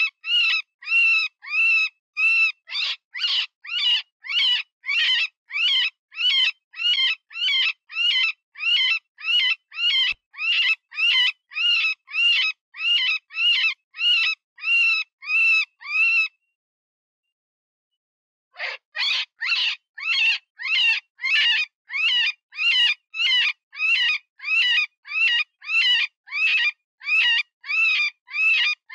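Cottontail rabbit distress call, as used to lure predators: a run of short, high, wavering squeals about two a second. The squeals stop about 16 seconds in and start again some two seconds later.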